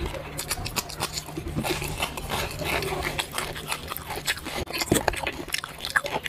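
Close-miked chewing and mouth smacking of a man eating noodles and cucumber by hand, a dense run of small wet clicks and crackles with a couple of louder pops near the end.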